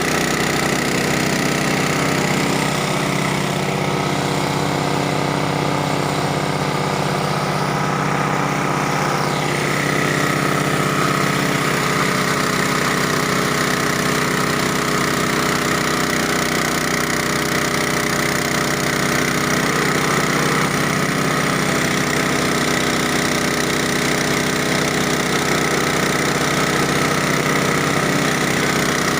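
Engine-driven multipurpose chopping machine for grinding cassava, running steadily with an even, unbroken hum.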